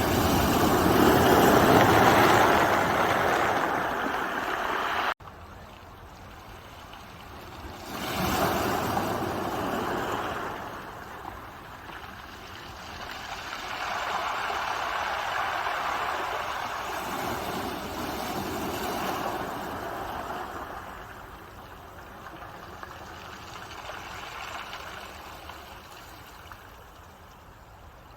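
Ocean waves breaking and washing up the shore, surging and receding every few seconds. The loudest surge is at the start and cuts off abruptly about five seconds in, followed by quieter swells.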